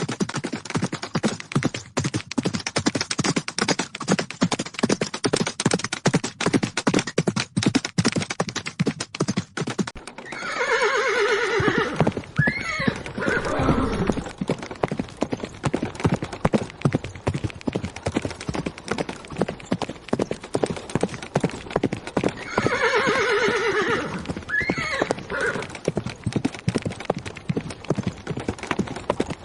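Horses galloping, a continuous rapid drumming of hoofbeats. A horse neighs twice over it, a long falling whinny about ten seconds in and another about twenty-three seconds in.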